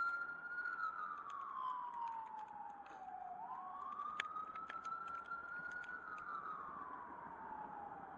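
Faint emergency vehicle siren sounding a slow wail. Its pitch rises quickly, holds high, then glides down over about two and a half seconds. It falls twice.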